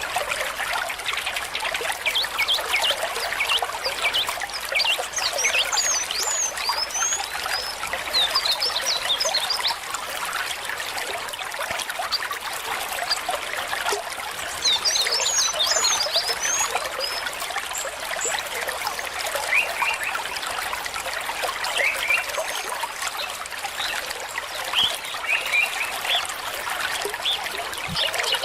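Shallow stream water trickling and babbling steadily, with brief clusters of high chirps at times.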